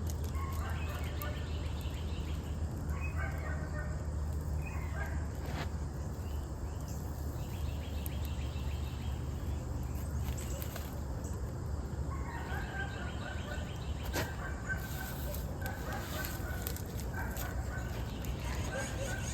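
Birds calling in repeated short bursts over a steady low rumble, with an occasional sharp crack.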